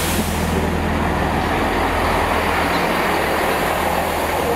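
Great Western Railway diesel multiple unit running past at low speed as it comes into the platform: a steady engine drone under continuous wheel and rail noise.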